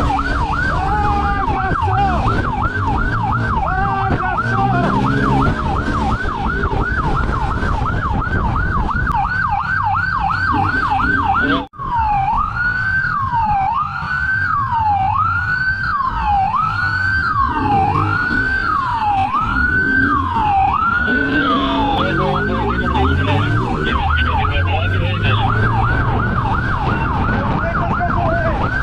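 Police siren running continuously, switching from a fast yelp to a slower rising-and-falling wail about twelve seconds in after a brief cut, then back to the fast yelp, over the noise of an engine revving up and down.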